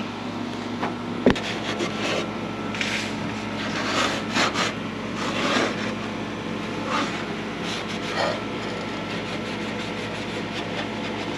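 Scattered scraping and rubbing noises, with one sharp knock about a second in, over a steady hum.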